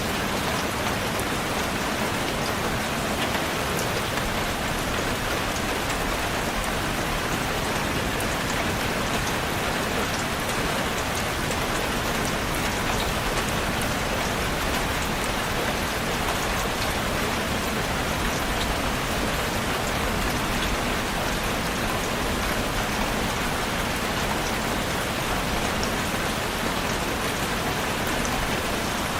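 Steady rain falling on a surface, an even hiss with many small drop ticks, unchanging in level.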